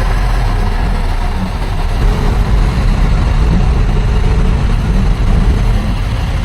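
Heavy diesel engine of earthmoving machinery running steadily, a deep, even drone.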